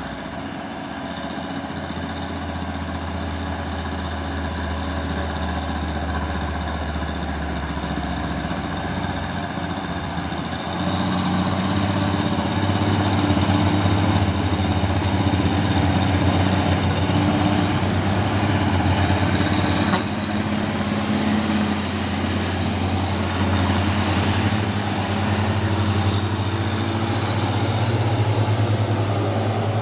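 Heavy diesel truck engine running hard. It gets louder about a third of the way in, and its pitch steps up and down a couple of times as the revs change.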